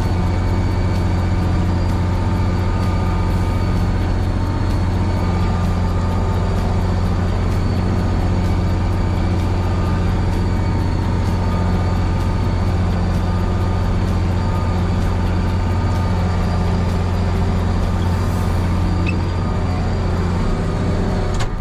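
Case 2670 tractor's diesel engine running steadily while pulling a disc chisel through the field, a constant deep drone with a steady higher whine over it.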